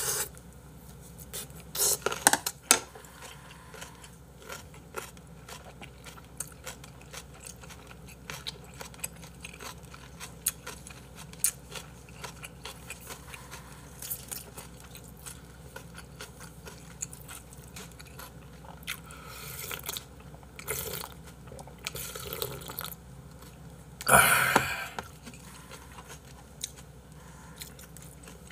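A man chewing and eating a mouthful of food, with many small wet mouth clicks and a few louder noises about two seconds in and a little before the end.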